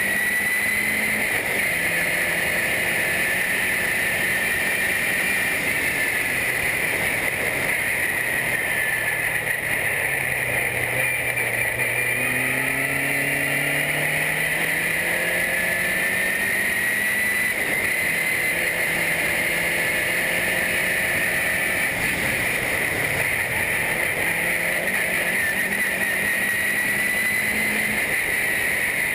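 Formula race car engine running hard on track, its pitch repeatedly climbing and then dropping back, over a steady rushing noise.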